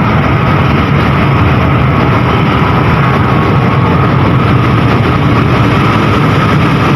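Train's diesel locomotive engine running close by, a loud, steady, low sound without breaks.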